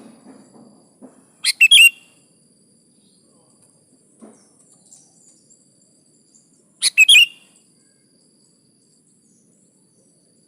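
Sooty-headed bulbul calling: two short, loud chirping phrases about five seconds apart, with a faint steady high hiss between them.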